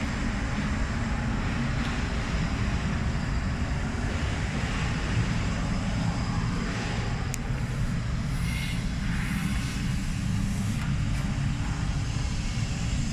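Diesel engine of a Howo 12-wheel dump truck running steadily with a low rumble.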